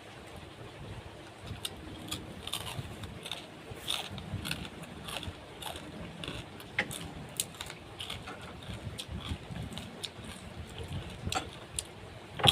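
Eating sounds: irregular small clicks and crunches, a few a second, with one sharper click about seven seconds in.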